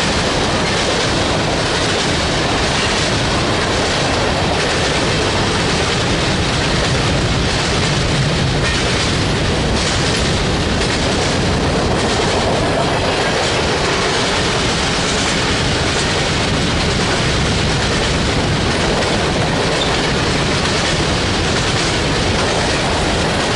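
Railroad cars of a passing train rolling by, a steady loud rumble and rattle with wheels clicking over the rail joints.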